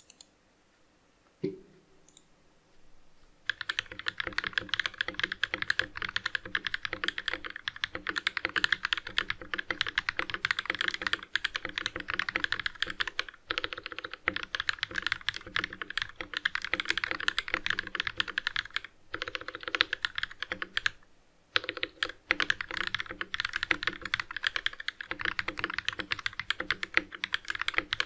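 Fast continuous typing on a VX7 Pro mechanical keyboard with Durock POM switches, the key presses starting about three and a half seconds in after a single click. The typing breaks off briefly twice, near the middle and again about three quarters of the way through.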